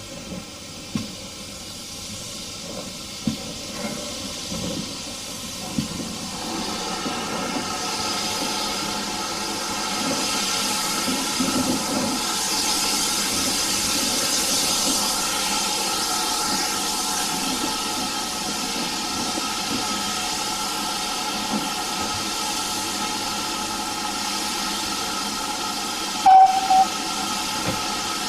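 Steam locomotive venting steam in a steady hiss that builds up after a few sharp knocks. Near the end comes one brief loud toot of its whistle.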